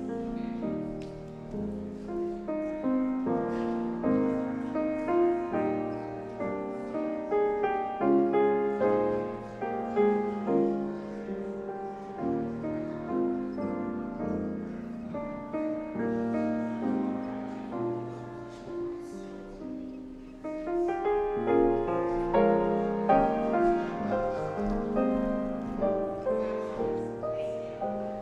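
Piano music: a slow piece of sustained chords and melody, each note struck and fading, with a short lull about twenty seconds in.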